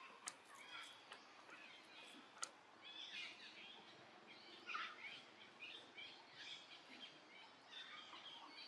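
Faint, high-pitched chirping calls repeating over and over, with two sharp clicks in the first few seconds.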